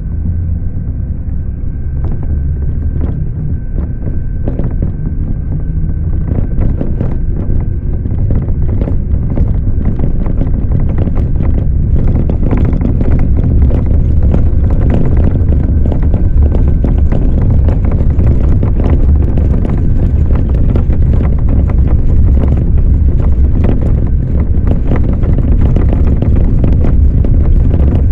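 A motor running with a steady low rumble and many irregular knocks and rattles, growing louder over the first dozen seconds.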